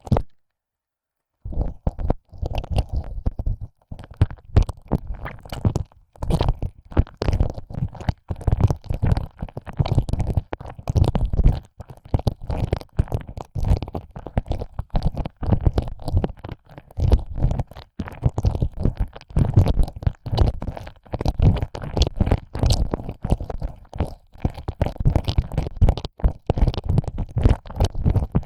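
ASMR ear licking: a tongue pushed in and out of an ear hole, dense irregular close-up licking sounds heaviest in the low range. It starts after about a second and a half of silence and then runs on without pause.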